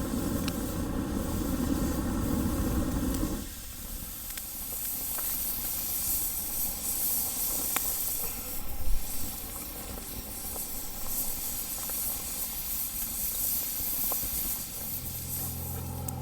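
Wood fire hissing steadily with a few sharp pops, one louder about nine seconds in. A heavier low rumble stops suddenly about three and a half seconds in, and a low steady hum comes in near the end.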